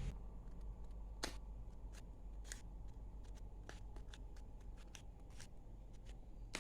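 Stationery being handled at close range: scattered light clicks and paper rustles, with a few sharper ticks at about one, two and two and a half seconds in and again near the end.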